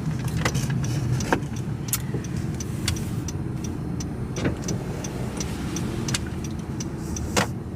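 Car driving, heard from inside the cabin: a steady low rumble, with scattered light clicks and taps at irregular moments.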